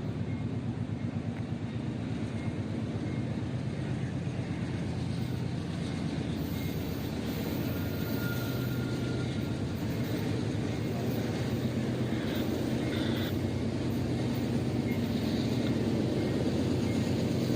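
A train rumbling through a grade crossing: a steady, dense rumble and rattle that slowly grows louder.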